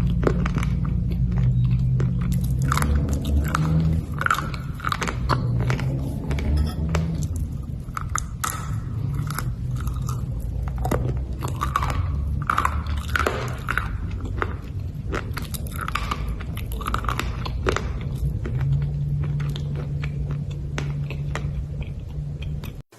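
Black slate bars being bitten and chewed: a dense run of sharp, brittle crunches. A steady low hum runs underneath.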